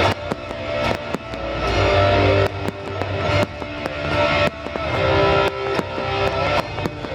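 Music playing over a fireworks display, with many sharp firework pops and bangs going off through the music.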